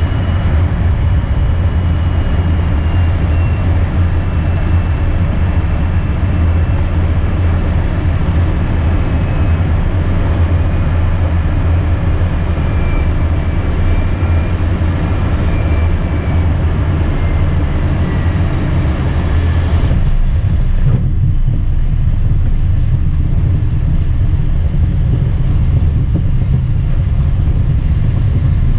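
Steady loud rumble inside an Embraer Phenom business jet's cockpit, with a faint turbine whine slowly falling in pitch. About twenty seconds in, the high hiss drops away suddenly, leaving the low rumble.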